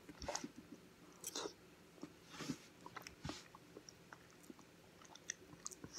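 A person chewing a mouthful of lasagna: faint mouth sounds and small clicks at irregular intervals.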